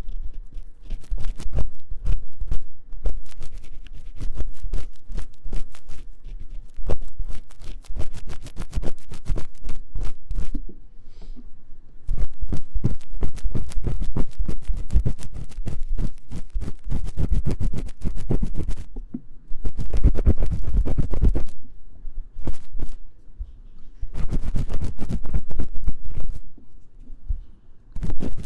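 Fast, vigorous scratching with an ear-cleaning tool in the silicone ear of a 3Dio binaural microphone, in dense rapid strokes broken by a few short pauses.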